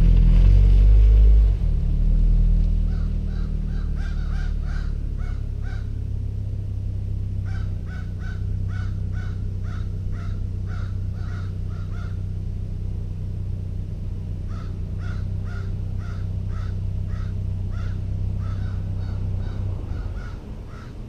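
2017 Subaru BRZ's 2.0-litre flat-four idling through a Lachute Performance cat-back exhaust on a cold start: loud for the first second or so, then settling to a steady low idle that fades near the end. Crows caw over it in runs of several quick calls.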